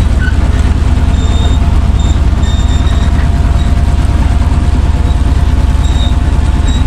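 Chevrolet C60 truck's engine running steadily with a deep, even rumble, and a few brief faint high-pitched squeaks over it.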